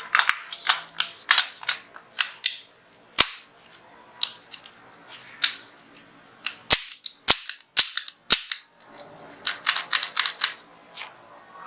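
Turkish Zigana 36 9mm pistol being worked by hand after reassembly: a run of sharp metallic clicks and snaps from the slide and action. Near the middle come four crisp snaps about half a second apart.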